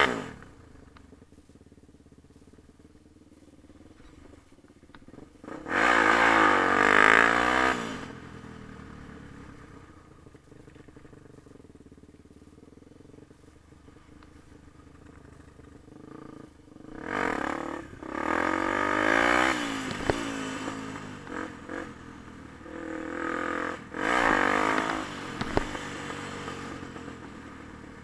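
Yamaha TT-R250 dirt bike's four-stroke single-cylinder engine revving up in short bursts and falling back to a low, quieter run in between. The longest, loudest burst comes about six seconds in, with more throttle blips in the second half.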